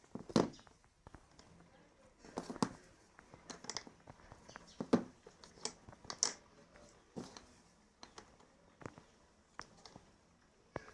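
Irregular light knocks and clicks, about a dozen scattered through, as of small objects being handled and set down; no motor is running.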